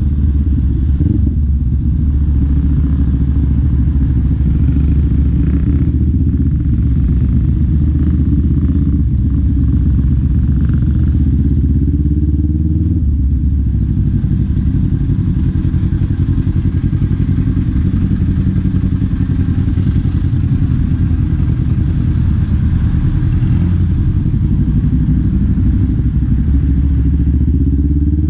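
Kawasaki Z400's parallel-twin engine and exhaust running at a fairly steady pace on the move, the pitch climbing near the end as the throttle opens.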